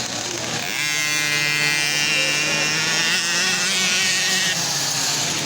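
Motocross bike engine held at steady high revs, a buzzing note that comes in about a second in and drops away shortly before the end, over other engine noise.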